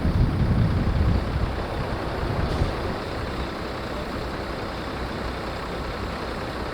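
Heavy trucks running, a loud low engine rumble that eases off after about two and a half seconds into a steady lower rumble.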